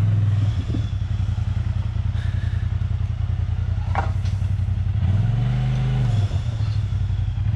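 Off-road vehicle engine idling low, briefly revved about five seconds in as it works at a rock obstacle. A single sharp knock sounds just before the rev.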